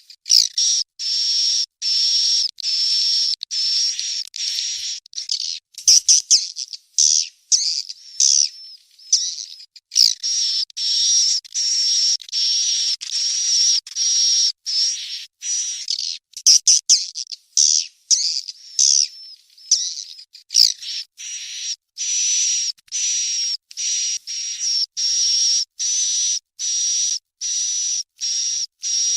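Swiftlet chicks calling: a fast, continuous run of high, buzzy chirps, each about half a second to a second long, separated by short gaps and a few sharp clicks. It is a swiftlet lure recording of the kind played to bring swiftlets to roost.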